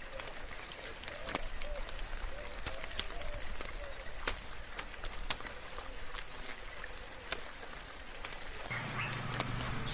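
Steady rain with scattered sharp drips, and faint bird chirps over it. A soft, low warbling call sounds in the first half, and a low drone comes in near the end.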